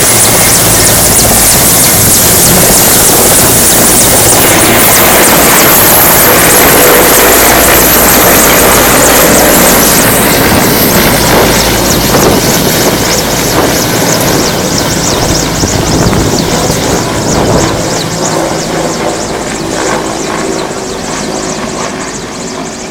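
Helicopter rotor and engine noise during takeoff, loud and steady with a fast rotor beat, then fading gradually over the second half as it climbs away.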